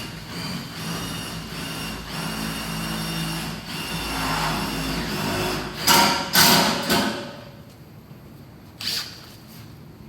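A power tool running steadily for about six seconds, then several loud short clanks, and one more knock near the end.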